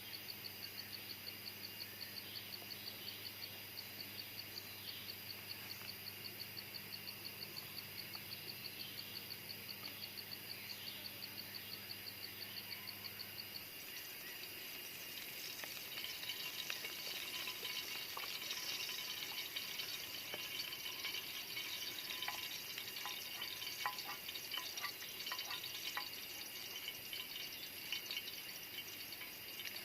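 An insect chirping in a fast, even pulse over a low hum, which cuts off about halfway through. Then comes a sizzling, crackling sound with small clicks and splashes, like food frying or being stirred over a fire.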